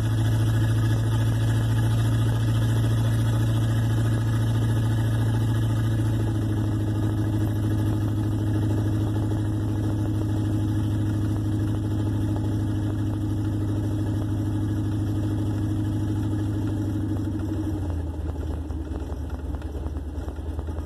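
1958 Plymouth Suburban's engine heard from inside the car while cruising, a steady drone; about eighteen seconds in its pitch drops as the car slows.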